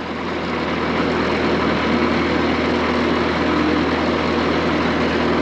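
Diesel skid steer engine running steadily, growing louder over the first second or so and then holding even.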